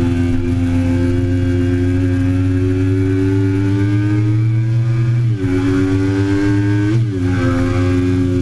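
2008 Triumph Daytona 675's three-cylinder engine pulling hard under acceleration on track, its note rising steadily. It dips briefly and picks up again about five seconds in and once more about seven seconds in, as it shifts up a gear.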